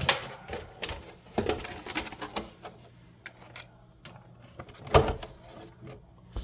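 Handling noise as an RC car's plastic body is fitted onto the chassis: scattered knocks and clicks, with one louder knock about five seconds in.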